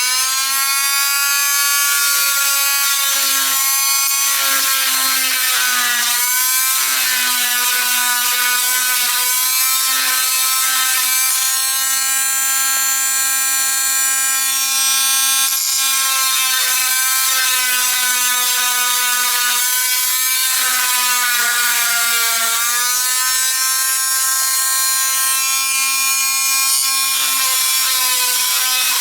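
Electric motor of a power tool spinning up and running with a steady whine, its pitch dipping briefly and recovering about three times.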